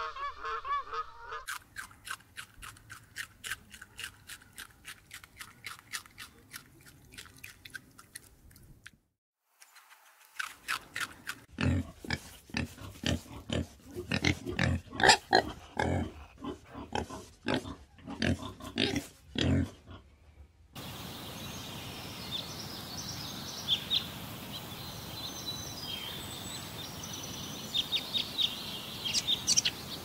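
Pigs grunting in a rapid run of short grunts, the loudest sound here. Before it, a swan's honking call cut off at the start and a regular run of soft clicks at about three a second; after it, a steady outdoor hiss with high bird chirps.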